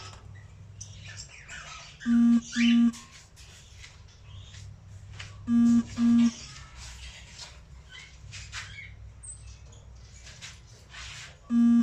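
Cockatiel giving short chirps amid light rustling, cut three times by a loud double tone: two short, level, buzzy beeps in quick succession.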